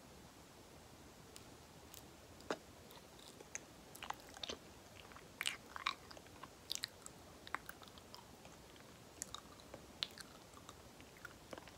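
Close-miked eating of banana: soft chewing with sticky, wet mouth clicks and smacks coming irregularly, starting about two seconds in and busiest around the middle.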